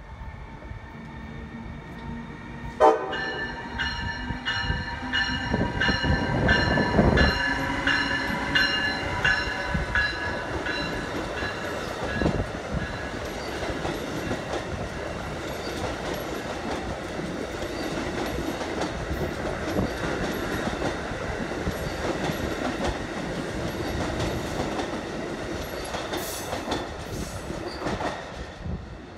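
Amtrak ACS-64 electric locomotive sounding its multi-tone horn for about seven seconds, starting with a sharp onset about three seconds in. After the horn comes the steady rumble and wheel clatter of the locomotive and its Amfleet coaches passing on the track next to the platform.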